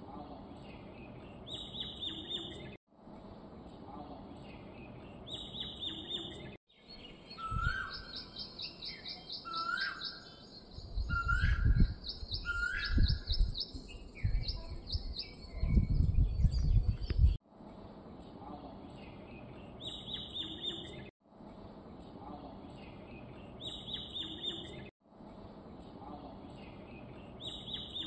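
Small birds chirping: a short high chirp recurs about every four seconds, broken by abrupt cuts in the sound. In the middle stretch a rapid run of high notes and short lower whistled notes sound over loud low rumbling bursts.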